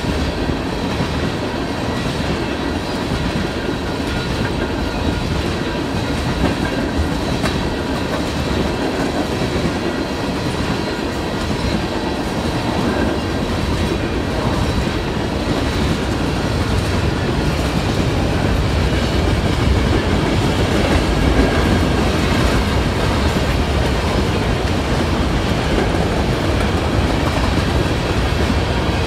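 Freight cars of a long train rolling steadily past, a continuous rumble and clatter of wheels on the rails, growing a little louder about two-thirds of the way through.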